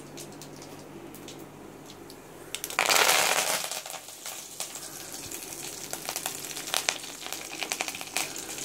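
Tempering of spices and curry leaves frying in hot oil in an aluminium kadai, sizzling quietly. There is a loud burst of sizzle about three seconds in, then scattered crackles and clicks of the spoon against the pan.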